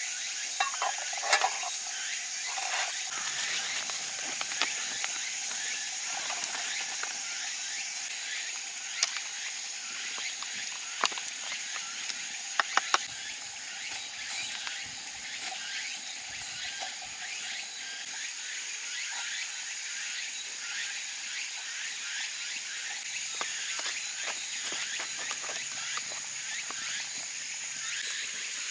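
Steady hiss of rain, with scattered sharp crackles and pops from a wood campfire.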